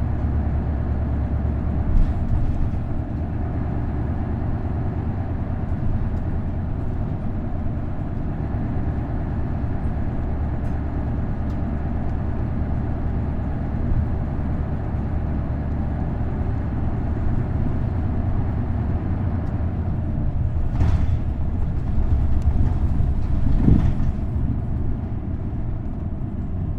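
Isuzu Erga city bus with a V8 diesel engine and a five-speed manual gearbox, running steadily on the road; the engine's low drone is heard from inside the bus. A few short knocks and rattles from the body come through, the loudest near the end.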